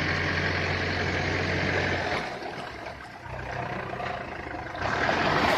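A vehicle engine idling steadily. It fades about two seconds in and picks up again, then a rush of broader noise rises near the end.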